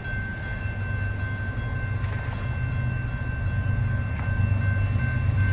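Diesel locomotives of an approaching BNSF freight train working hard, their low rumble growing steadily louder, over a grade-crossing warning bell ringing steadily.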